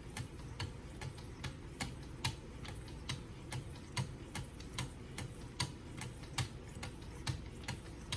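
Wicked Edge guided sharpener's stones being stroked along a kitchen knife's edge, giving sharp clicks about two to three times a second.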